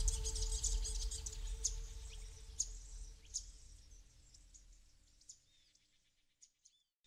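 Birds chirping, short high calls, over a faint steady low tone and rumble. Everything fades out to silence about six seconds in.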